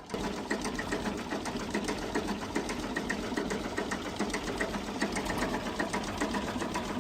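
A machine running with a fast, even mechanical clatter that starts suddenly and holds steady.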